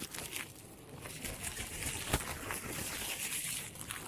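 Plastic packaging or a plastic bag rustling and crinkling as it is handled, with many small clicks and one sharp click about two seconds in.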